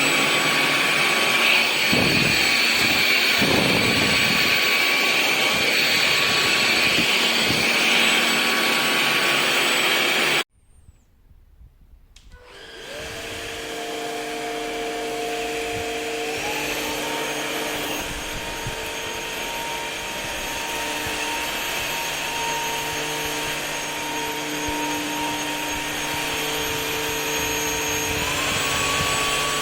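Cordless stick vacuum running with a steady whine, then cutting off suddenly about a third of the way in. After a couple of seconds of near silence it starts up again and runs, its whine stepping up in pitch twice.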